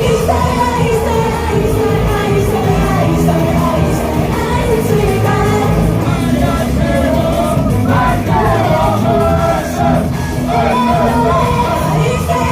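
Live idol pop song: a group singing over a loud, steady backing track.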